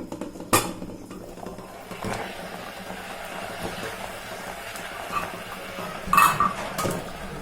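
Metal cookware and utensils being handled: a sharp knock about half a second in and a ringing clink-and-clatter near the end, over a steady background hiss.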